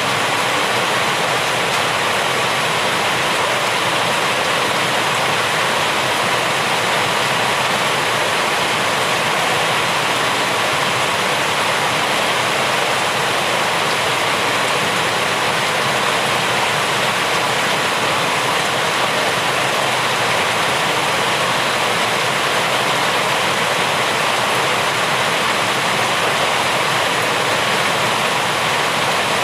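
Rain falling steadily: an even, unbroken hiss with no single drops, thunder or changes standing out.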